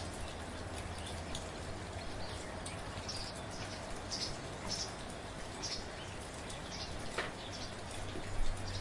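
Steady soft rain falling, an even hiss with individual drops. A few short high-pitched notes sound over it in the middle, and a low rumble swells up near the end.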